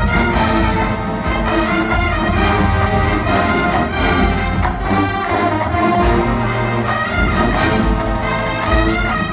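Marching band brass section playing loudly and continuously, trombones and trumpets prominent.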